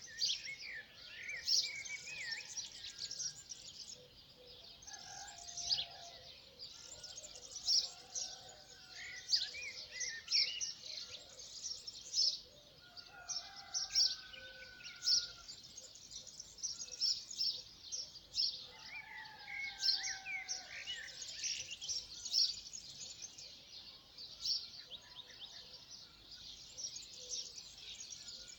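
Many small birds chirping and calling at once, a dense chorus of short high notes, with now and then a lower whistled phrase from another bird.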